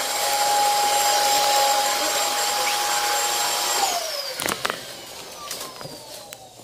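Commercial vacuum cleaner running with a steady motor whine, then switched off about four seconds in, its pitch falling as the motor spins down. A few clicks and knocks follow.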